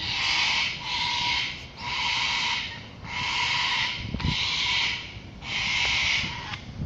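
Cockatoo giving six harsh, hissing screeches in quick succession, each lasting under a second. The bird is agitated, frightened by dogs.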